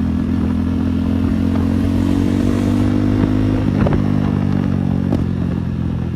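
KTM Duke 390 single-cylinder engine running with no exhaust fitted, heard while riding. The loud, raw note climbs slowly, then drops about two-thirds of the way through.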